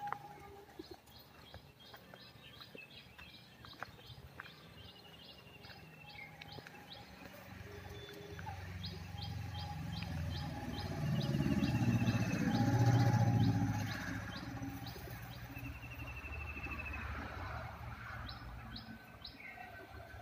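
Birds calling: long runs of short, high chirps repeated about three times a second, with a few brief trilled notes between. A low rumble swells and fades in the middle and is the loudest sound.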